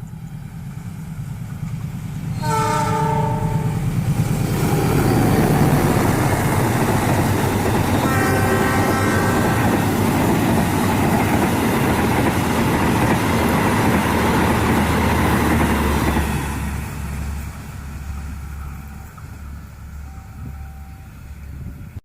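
KAI CC206 diesel-electric locomotive passing at speed with its train. Its horn sounds about two and a half seconds in and again about eight seconds in, over the loud noise of the wheels and cars. The noise drops away after about sixteen seconds to a low rumble.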